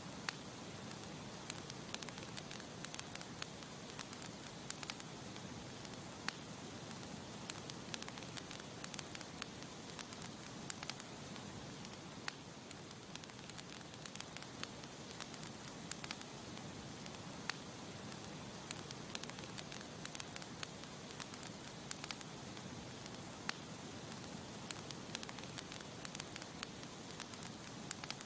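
Campfire crackling: a steady hiss of burning wood with frequent, irregular sharp pops and snaps.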